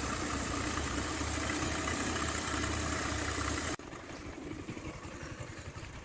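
Motorcycle's single-cylinder four-stroke engine idling steadily; about four seconds in the sound drops abruptly to a quieter, lower rumble.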